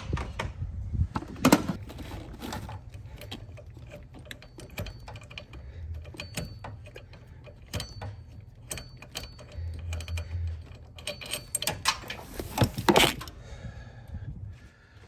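Ratcheting wrench clicking in uneven runs as the bolt on the steering shaft is worked loose, with a couple of louder metal knocks.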